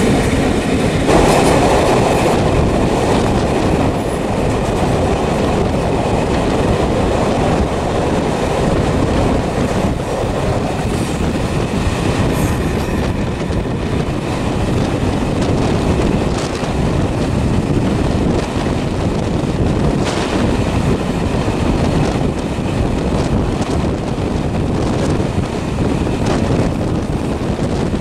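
Steady loud rumbling, rushing noise of a vehicle in motion, growing a little louder about a second in.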